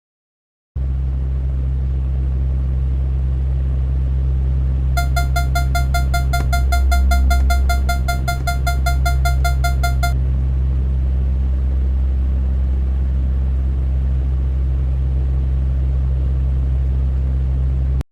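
Loud, steady low electronic drone that starts abruptly about a second in and cuts off sharply near the end. From about five seconds in, a fast run of high beeps, roughly five a second, sounds over it for about five seconds.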